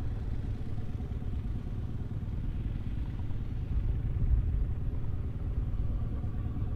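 Volvo BM 2654 tractor's diesel engine running steadily under load while pulling a five-furrow plough.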